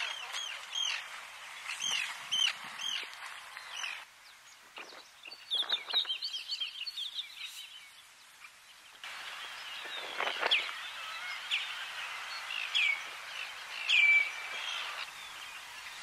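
Wild birds calling over a steady outdoor hiss: first a run of short chirping calls about three a second, then a quick chatter of high calls, then scattered falling calls, the loudest near the end.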